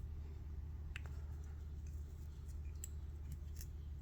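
Faint, scattered clicks of fly-tying handling at the vise (foam and thread being worked on the hook) over a steady low hum.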